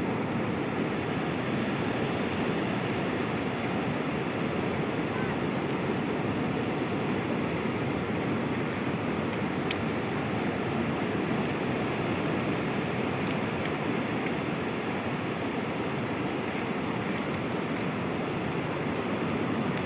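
Sea surf: a steady, unbroken wash of breaking waves.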